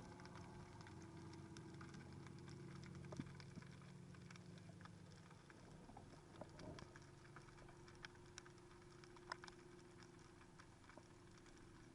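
Faint underwater ambience: scattered small clicks and crackles over a steady low hum.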